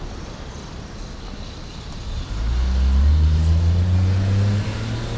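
A road vehicle's engine accelerating close by: a low hum that comes in about two seconds in, climbs slowly in pitch and eases off near the end, over steady street noise.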